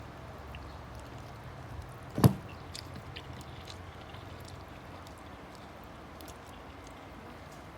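A single sharp knock about two seconds in, then faint scattered clicks over a steady low hum.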